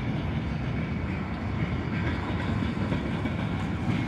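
Freight train's gondola cars rolling past: a steady low rumble of steel wheels on the rails.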